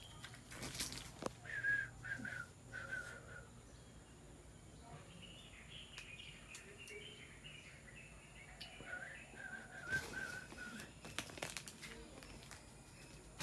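Birds chirping: short wavering calls in two spells, with a run of higher quick notes between them. A few sharp knocks, about a second in and again near ten seconds.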